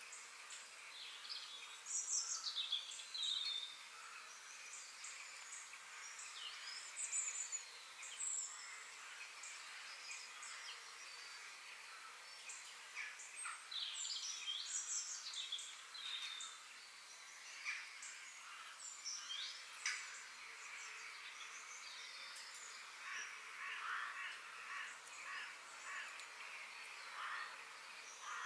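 Several forest birds singing and chirping at once, short overlapping calls and trills throughout, over a steady high hiss.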